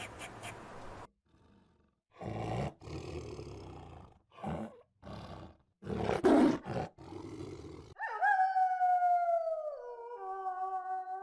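A tiger roaring and growling in a series of short, rough bursts, the loudest about six seconds in. Then a grey wolf howling: one long howl sliding down in pitch, followed near the end by a second, lower, steadier howl.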